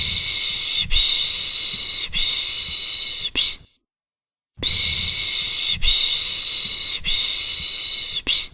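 Rhythmic 'piş piş' shushing for soothing a baby: loud breathy hisses in runs of three roughly one-second pushes and a short one. There is a pause of about a second, around four seconds in, then the run repeats.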